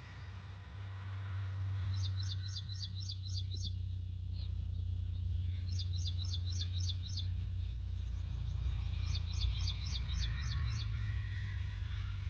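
Sonalika tractor's diesel engine running with a steady low drone. Over it, a bird gives three quick bursts of rapid chirps.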